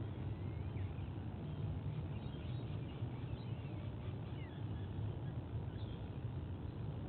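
Steady low rumbling background noise on an outdoor nest-cam microphone, with faint, scattered high bird chirps and short whistles.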